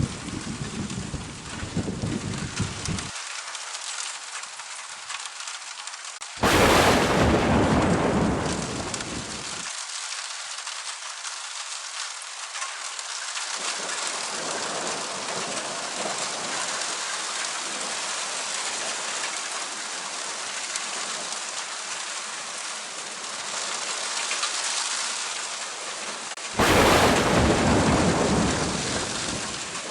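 Heavy rain falling steadily through a thunderstorm, with a low thunder rumble at the start that cuts off about three seconds in. Two sudden loud thunder cracks, about six seconds in and again near the end, each rolling away over a couple of seconds.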